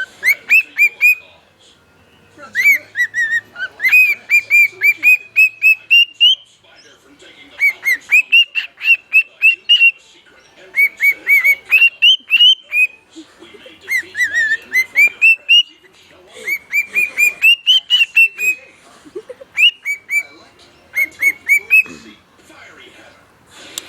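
Pet bird singing: phrases of quick, clear whistle notes, each note rising in pitch, repeated with short pauses between phrases.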